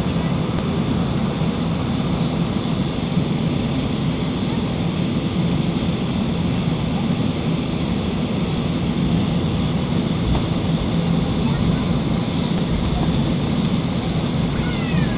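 Airbus jet airliner's engines and airflow heard from inside the passenger cabin: a steady, low noise that neither rises nor falls.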